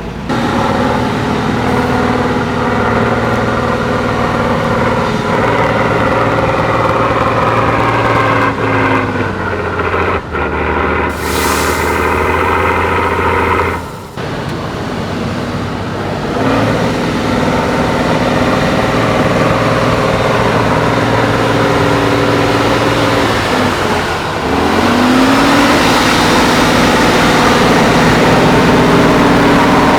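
Tatra 6x6 trial truck's diesel engine working hard under load, its pitch dropping and then climbing again as the throttle is worked. A short hiss of air about eleven seconds in.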